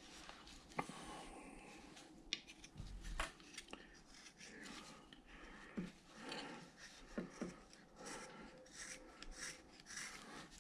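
Hand carving blade taking small shaving cuts from a wooden figure: a run of faint, irregular scraping strokes and small clicks.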